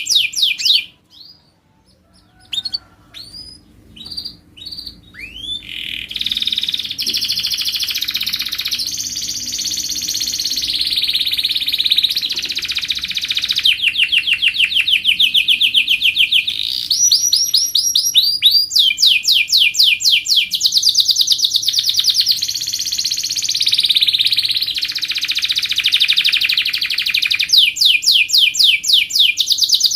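Domestic canary singing: a few short notes after a brief pause, then a long, nearly unbroken song of fast trills with rapidly repeated notes.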